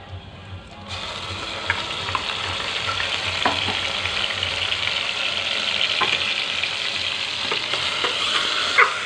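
Ground onion paste dropped into hot oil in a pressure cooker: a loud sizzle starts about a second in and keeps going as it is stirred. Now and then a metal spatula clinks against the cooker, loudest near the end.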